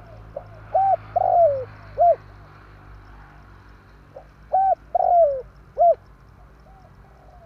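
Spotted dove cooing: two loud phrases of about four coos each, roughly three and a half seconds apart, with fainter cooing near the end.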